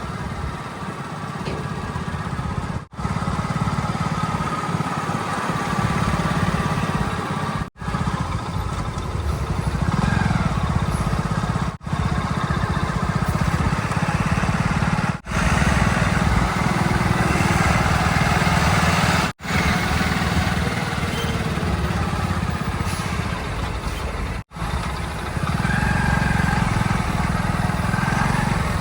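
Heavy diesel engines of a backhoe loader and tractors running and working, their pitch shifting as they labour. The sound drops out sharply several times, every few seconds, where short clips are joined.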